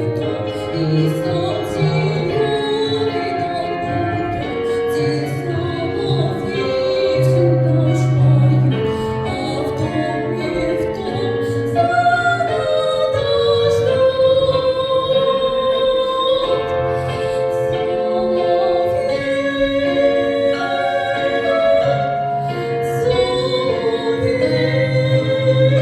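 A song performance: a female voice singing held, wavering notes over an instrumental backing with a bass line and light percussion.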